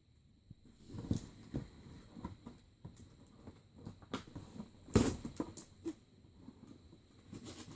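Cardboard and plastic toy packaging being handled and pulled apart: irregular rustles, scrapes and clicks, with one sharp, loud snap about five seconds in.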